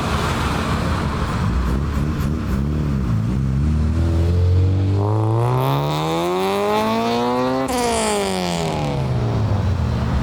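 Car engine idling, then revving up smoothly for about three and a half seconds and dropping back down to a steady drone.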